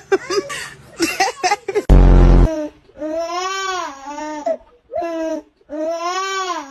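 A baby crying in two long, drawn-out wails, after a few short choppy fussing sounds. A very loud low thump comes about two seconds in.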